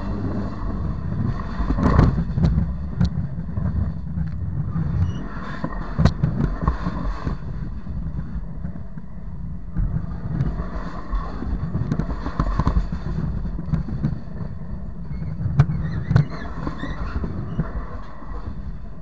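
Train cars rolling over the track, heard from between the rails directly beneath them: a steady low rumble with sharp metallic clanks and knocks now and then. The loudest knocks come about two seconds in, about six seconds in, and twice close together near the end.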